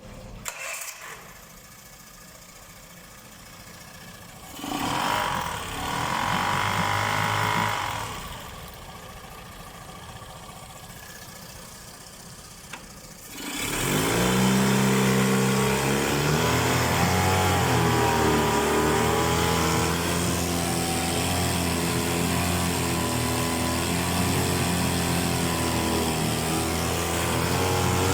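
Yamaha F25A four-stroke outboard motor: a first start attempt lasting about three seconds that stops, then about halfway through the engine starts and keeps running with a steady, slightly wavering note.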